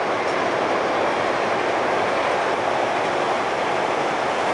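JR commuter electric train running across a steel truss rail bridge, its wheels and the bridge making a steady, even rush of noise.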